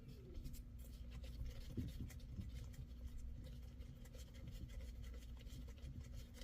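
Faint, irregular scraping, rubbing and light ticking of small metal engine parts and bolts being handled, over a steady low hum.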